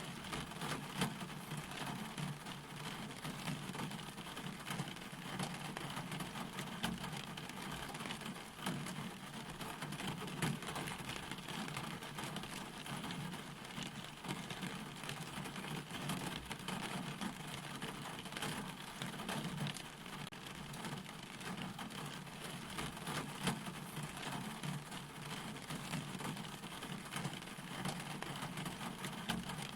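Steady rain falling, with a constant hiss and many individual drops ticking through it.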